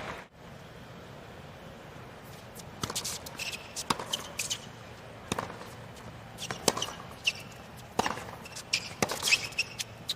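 Sharp, irregular taps of a tennis ball bouncing on a hard court, with a few short high squeaks, over the steady hush of a quiet stadium crowd.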